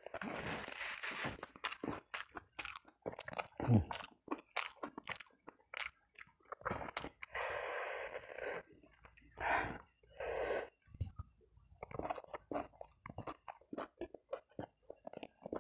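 Close-miked chewing of a mouthful of fried chicken, rice and boiled cassava leaves eaten by hand, with wet smacking and crunching clicks throughout. A paper tissue rustles near the start, and there are a few louder breathy mouth noises about halfway through.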